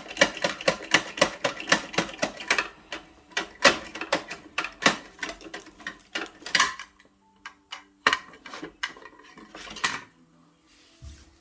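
Rapid clicking and clattering of hard plastic toy pieces: Bruder toy garbage trucks and trash bins being handled. The clatter thins out and stops about ten seconds in.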